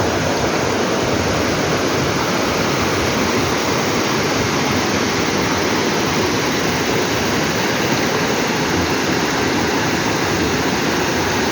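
Waterfall: falling water making a loud, steady rushing noise without letup.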